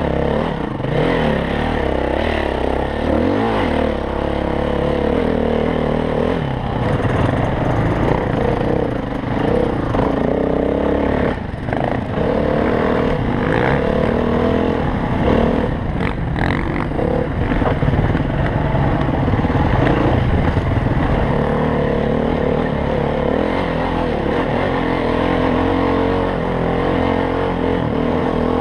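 Dirt bike engine run hard on a trail, its pitch rising and falling over and over as the throttle is opened and shut, with a few sharp knocks and clatter from the bike over rough ground.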